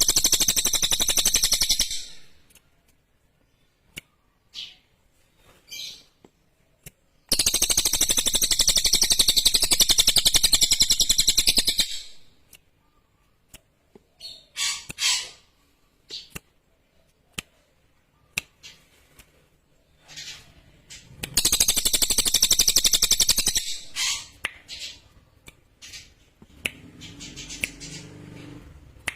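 Cililin songbird singing: three long, shrill, rapid trills of several seconds each, with short chirps between them.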